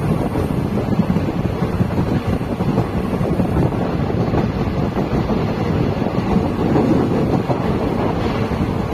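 Passenger train running, heard from aboard an ICF coach: a steady, loud noise of the coach on the track, with wind noise on the microphone.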